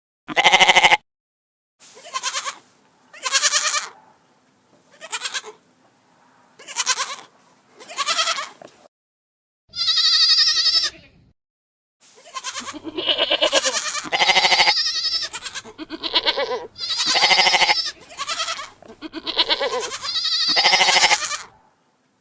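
Goats bleating: a string of separate wavering bleats, each lasting about a second. One higher-pitched bleat comes about ten seconds in. In the second half several bleats come close together and overlap.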